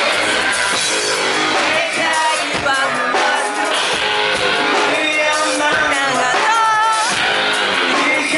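Live rock band playing loud, with electric guitar and a singing voice bending and holding notes.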